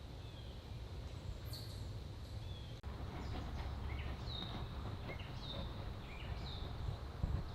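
Small songbirds calling in a backyard: a string of short, slurred high chirps, several of them in the second half, over a steady low background rumble.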